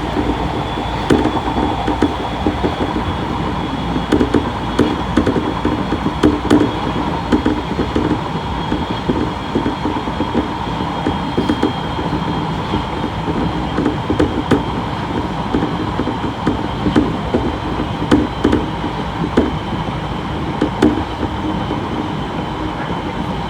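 Odakyu 1000 series electric train running, heard from inside the motor car: steady rolling noise of wheels on rail with irregular clacks over the rail joints and a faint high whine.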